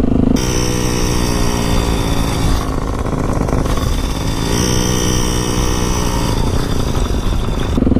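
Motorcycle engine running while riding off-road, its pitch rising twice as the throttle is opened.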